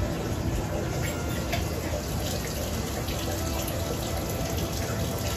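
Steady rain falling, with drops splashing and dripping close by as a scatter of short sharp ticks.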